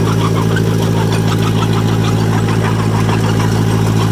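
John Deere 1010 crawler dozer's carbureted engine running steadily, which the owner says runs a little rich, with a light clatter repeating several times a second.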